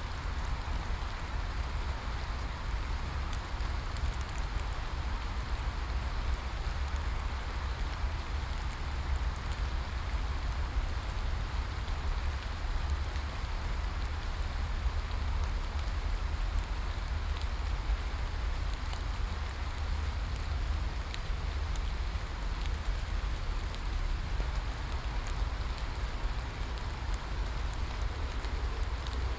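Steady rain falling, an even hiss with a constant low rumble beneath it and scattered faint ticks of individual drops.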